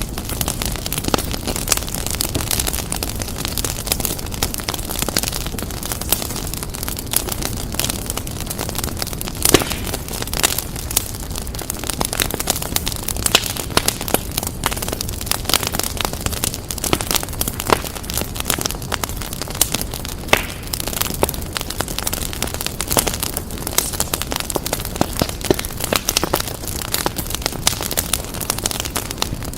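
Wood fire crackling: a steady low rumble and hiss of burning logs with dense, irregular snaps and pops, a few louder pops scattered through.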